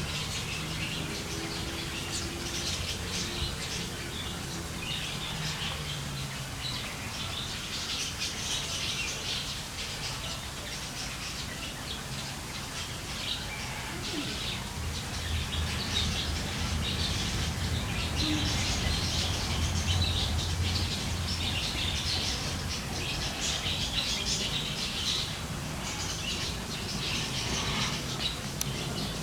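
Small birds chirping and twittering on and off, over a low steady hum.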